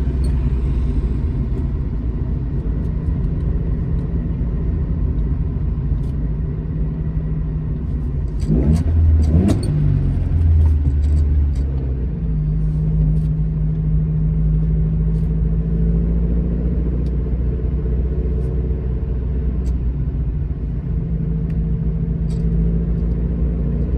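Alfa Romeo GT Junior's four-cylinder twin-cam engine running under way, a steady drone. About nine seconds in the revs sweep up twice in quick succession, then it settles back to a steady cruising note.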